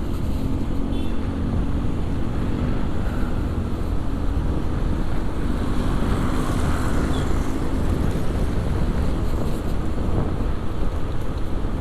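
Motorcycle riding noise: a steady engine hum with wind rushing over the camera's microphone and traffic around. The engine tone fades after about eight seconds.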